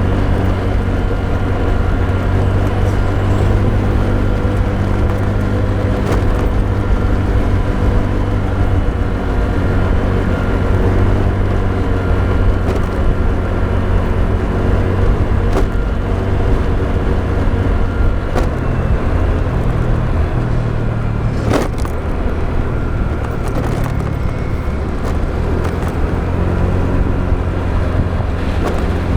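Motorbike engine running steadily under way, with wind and road noise. There are a few short sharp clicks, the loudest about two-thirds of the way through.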